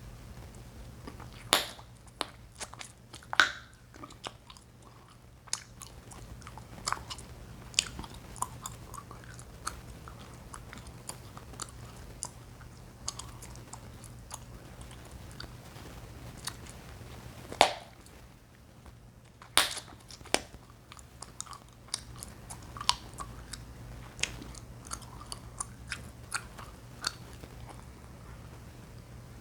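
Chewing gum being chewed and popped in the mouth close to the microphone: a steady run of irregular small clicks and snaps, with a few much louder sharp pops standing out.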